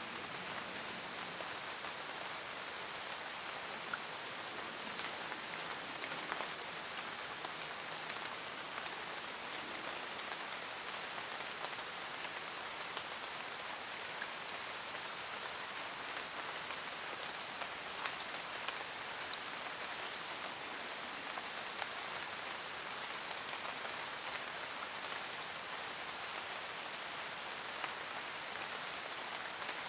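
Steady rain falling in a forest, with a constant hiss and many separate drops pattering on leaves.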